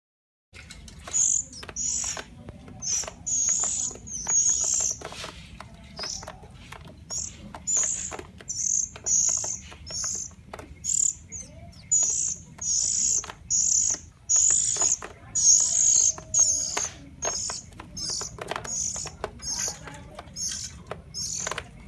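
Oriental magpie-robins (kacer) chirping: a long series of short, high-pitched calls, about one or two a second, over a faint hiss.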